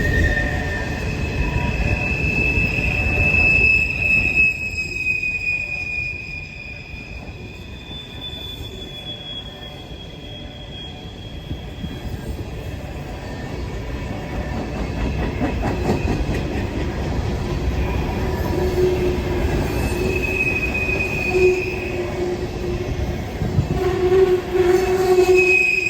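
Norfolk Southern freight train's cars rolling past with a steady rumble, their wheels squealing on the rails. The high squeals come and go and shift in pitch, and are loudest near the end, where a lower-pitched squeal joins them.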